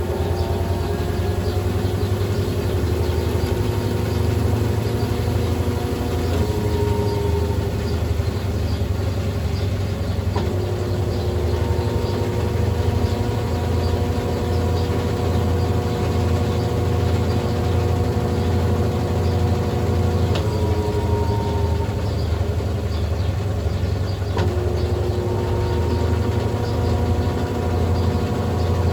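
Brastemp Ative BWL11 11 kg washing machine running mid-cycle: a steady low hum with a motor whine that glides to a new pitch every few seconds.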